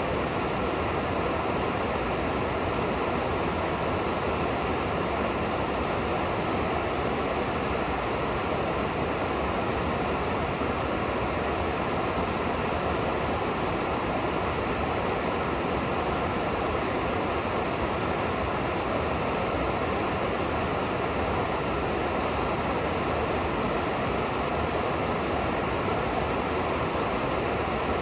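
River water rushing steadily below, an even unbroken noise.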